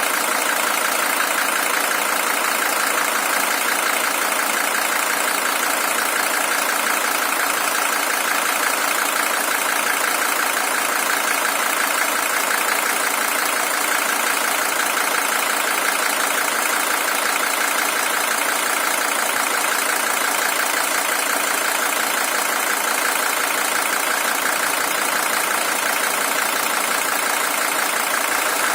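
Mercedes-Benz OM617 five-cylinder diesel engine in a W123 300TD, idling steadily. The engine is the original one, at 620,000 km.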